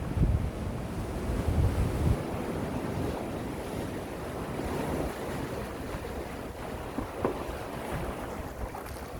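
Calm sea waves washing gently and steadily onto the shore. Wind buffets the microphone with a low rumble in the first couple of seconds.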